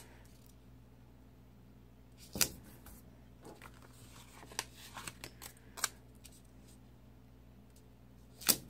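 A few scattered sharp clicks and snips from handling stickers and paper at a craft desk, the loudest about two and a half seconds in and just before the end, over a faint steady low hum.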